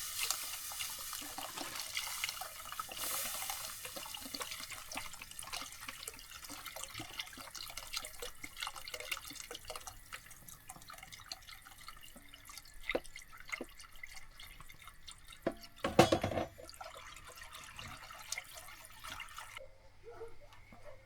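Water running and splashing, with many small clicks and knocks. There is one loud knock about three-quarters of the way through, and the sound cuts off abruptly near the end.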